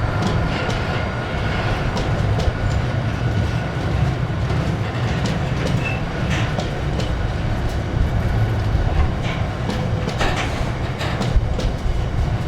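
A freight train passing close by: a steady low rumble with irregular wheel clicks over the rail joints.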